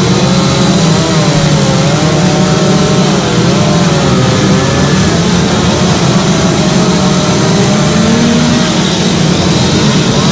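Chainsaws running under load as they carve wood, with the engine pitch wavering up and down as the saws bite and ease off.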